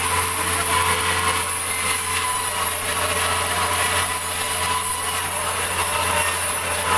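Sawmill saw running steadily as it cuts through a large meranti log: a continuous, even noise with a constant hum underneath.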